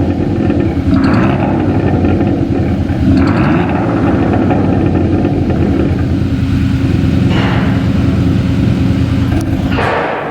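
Hyundai Tucson TL's exhaust note, through a Veloster N Performance exhaust with a JSR Xhaust active sound booster adding a speaker-made exhaust sound. It runs steadily with small changes in pitch, and a few short rushes of hiss come through.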